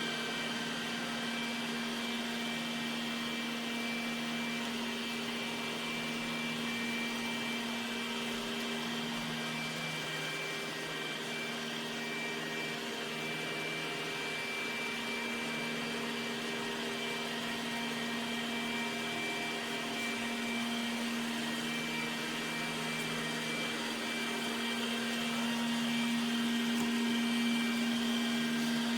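Robot vacuum cleaner running: a steady motor hum with a high whine above it, growing a little louder near the end.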